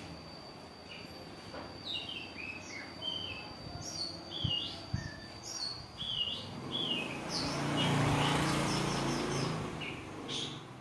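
Several small caged birds chirping, with many short, high chirps and quick sweeps in pitch. A broad rushing noise swells and fades a little past the middle and is the loudest part.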